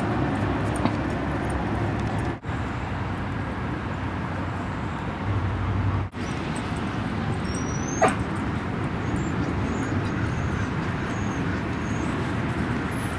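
A dog whimpering and giving a short yip about eight seconds in, over steady outdoor background noise.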